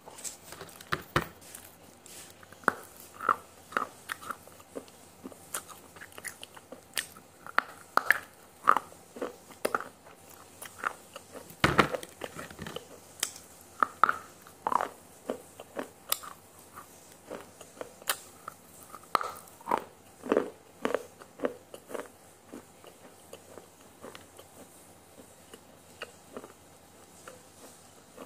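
Close-miked biting and chewing of something crunchy: irregular crisp crunches and wet mouth clicks, one louder crunch about twelve seconds in.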